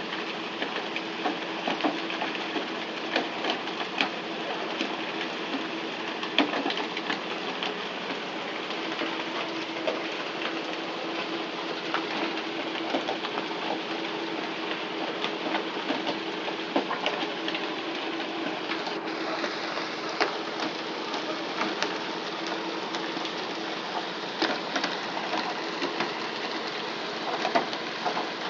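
A fishing boat's engine drones steadily under a constant rushing hiss like water spray, with frequent scattered clicks and knocks.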